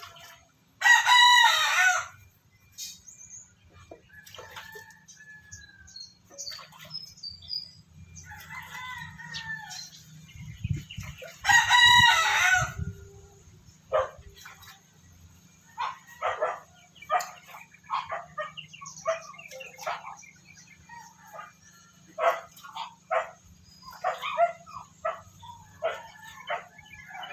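Rooster crowing twice, each crow about a second long and about ten seconds apart, followed by a run of short, quick calls.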